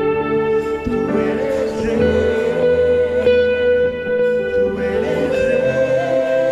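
Live worship band playing an instrumental passage, led by sustained electric guitar notes over a shifting bass line.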